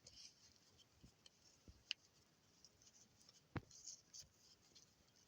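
Near silence with a few faint scattered clicks and soft rustles: handling noise from the toy being turned over for close-ups.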